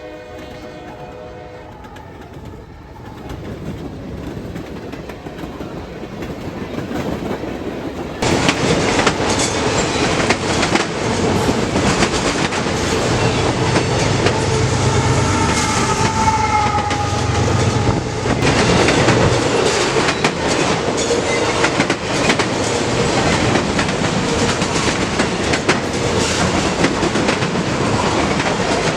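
A fast Norfolk Southern freight train with several diesel locomotives approaches and passes: a rumble builds, then about eight seconds in it turns abruptly into loud, steady wheel clatter over the rail joints. A low locomotive engine drone and a brief high squeal come in the middle.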